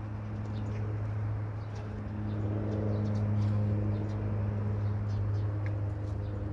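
Steady low engine hum from a motor running nearby, growing louder around the middle and easing off again, with faint short high chirps over it.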